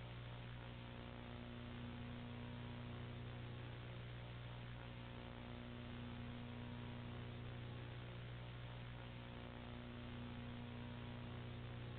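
Steady low electrical hum with a faint hiss behind it, unchanging throughout.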